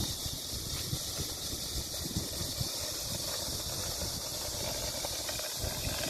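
Strong wind buffeting the microphone in irregular gusts, over a steady hiss.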